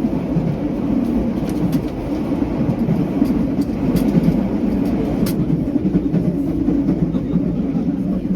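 Running noise of a JR West 323 Series electric multiple unit heard from inside the car: a steady rumble of wheels on rail at constant speed, with a few sharp clicks scattered through the middle.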